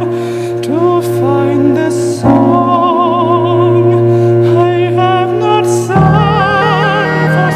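Operatic singing: a voice holding long notes with heavy vibrato over sustained low instrumental accompaniment, moving to new notes about two seconds in and again near the end.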